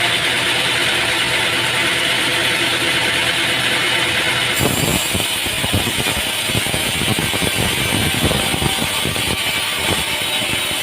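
Heavy machinery running steadily, then an abrupt change about four and a half seconds in to a rougher sound full of rapid knocking and clattering.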